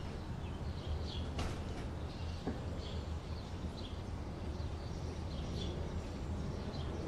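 Outdoor ambience: small birds chirping in short, high calls repeated every second or so over a low steady rumble, with one short click about a second and a half in.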